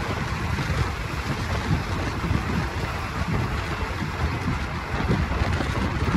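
Wind buffeting the microphone over the steady rumble of a moving passenger train, heard from on board. A continuous rushing noise with gusty low-end thumps and no distinct clicks or voices.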